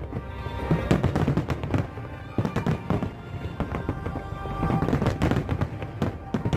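Fireworks going off in quick succession, many sharp bangs and crackles, heaviest about a second in and again near the end, with music playing over them.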